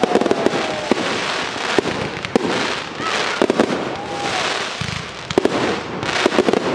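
Aerial fireworks display: an irregular run of sharp bangs from bursting shells, over a rushing hiss that swells and fades.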